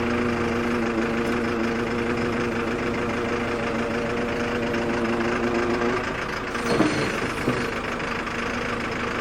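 Excavator's diesel engine running steadily. About six seconds in its note changes, with a brief sliding sweep in pitch and a short knock soon after.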